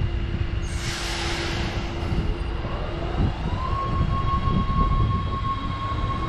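Dutch NS electric passenger train moving off along the platform: rumbling wheels and a rising electric whine from the traction motors as it picks up speed, which then holds at a steady pitch. There is a brief hiss of air about a second in.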